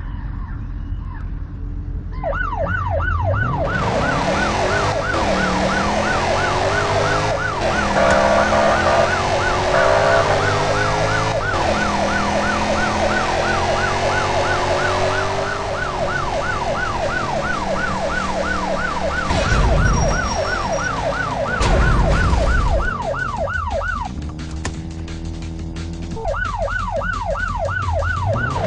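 An emergency-vehicle siren wailing in a fast yelp, its pitch rising and falling several times a second over a steady rumble. It starts about two seconds in, stops for a few seconds near the end, then starts again.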